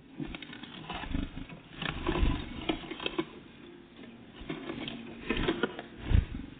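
Small birds, great tits and blue tits, feeding at a bird feeder close to the microphone: irregular pecking taps and scrabbling, with a few heavier thumps, the loudest near the end.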